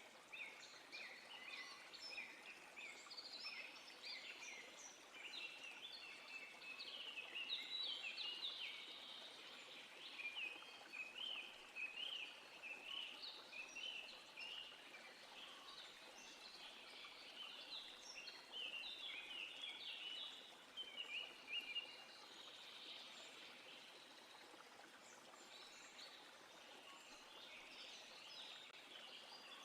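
Songbirds chirping in quick, overlapping notes over a faint steady hiss, thinning out for a few seconds after the middle.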